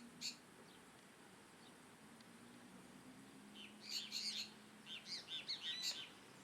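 Small birds chirping: one short high call just after the start, then a busy run of quick chirps from about three and a half to six seconds in.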